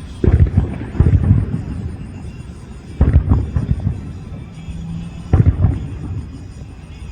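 Aerial fireworks bursting in a display: four deep booms, the first two about a second apart, then two more a couple of seconds apart. Each boom trails off in a short crackle.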